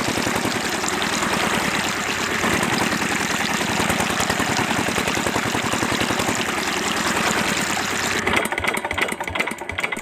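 Small engine of a DIY miniature water pump running fast with a rapid, even beat. It cuts out about eight seconds in, leaving fainter uneven rattling.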